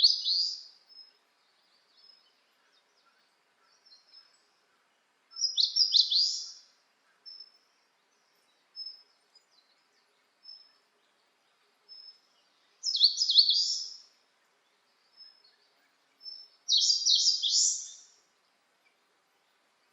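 A songbird singing a short, rapid, high-pitched phrase four times, each lasting about a second and a half and coming every four to seven seconds, with soft single high notes in between.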